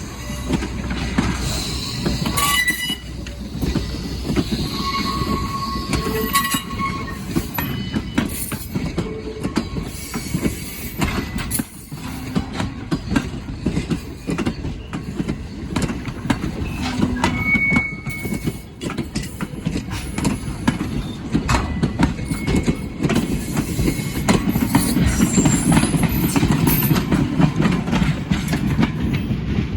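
A train rolling past at close range, its wheels clicking rapidly over the rails, with brief high wheel squeals here and there; it gets louder near the end.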